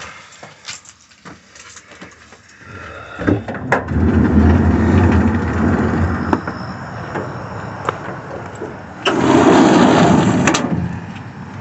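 A vehicle engine starting up about three seconds in and running with a steady low rumble, with a louder rush of noise for about a second and a half near the end.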